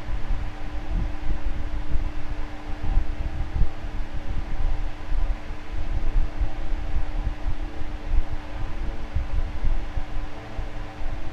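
Electric fan running steadily: a constant motor hum with several fixed pitches over a hiss of moving air, and an uneven low rumble of air buffeting.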